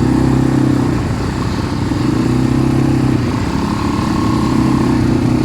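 ATV engine running at low, steady speed, its note wavering slightly with the throttle, with a faint higher whine joining about three seconds in.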